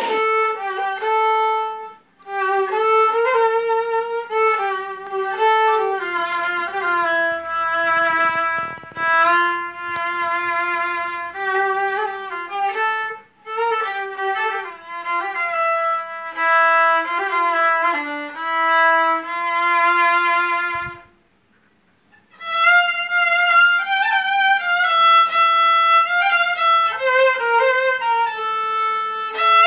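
Solo violin playing an improvised melody, one bowed line of held and moving notes with brief breaks. About two-thirds of the way through it stops for about a second, then carries on in a higher register.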